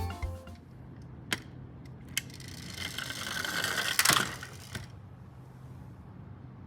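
A plastic toy garbage truck mechanism being worked by hand. Two sharp clicks come first, then a ratcheting, gear-like rattle builds for about a second and a half and peaks about four seconds in before fading.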